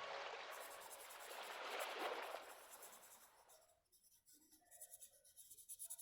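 Faint scratching of a felt-tip marker on paper, swelling about two seconds in and fading out past the halfway point.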